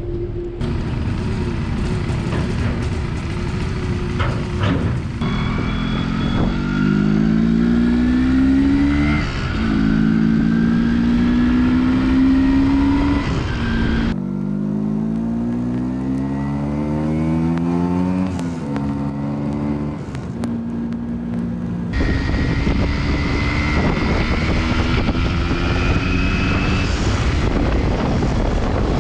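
MZ ETZ 250 single-cylinder two-stroke motorcycle engine pulling hard through the gears, its pitch rising in each gear and dropping at each shift, then running more steadily at speed near the end.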